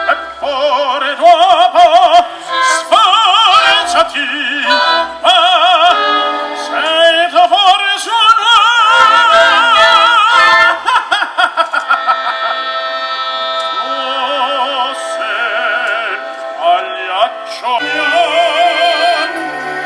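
Operatic singing with a wide vibrato over a symphonic orchestra's accompaniment.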